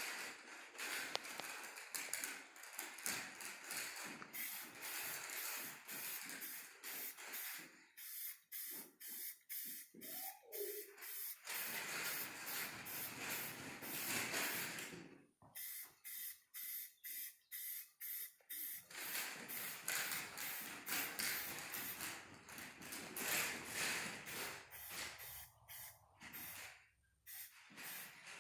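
Aerosol spray paint can hissing as paint is sprayed, mostly in quick short spurts with a longer unbroken spray in the middle.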